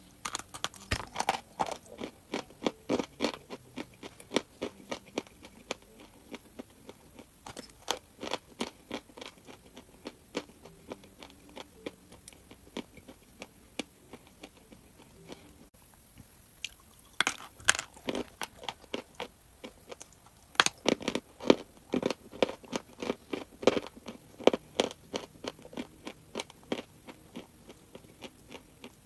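A person biting and chewing crunchy chalk: runs of rapid, crisp crunches, sparser for a few seconds near the middle and then dense again.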